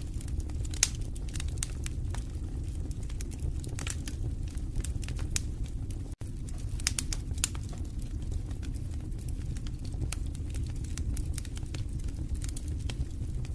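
Fireplace fire crackling: frequent irregular sharp pops and snaps over a steady low rumble of the flames. The sound drops out for a split second just after six seconds.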